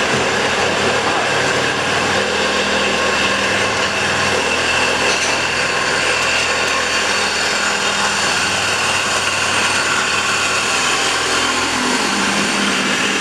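Steady, unbroken machine noise with several constant whining tones, from work on a car's exhaust system.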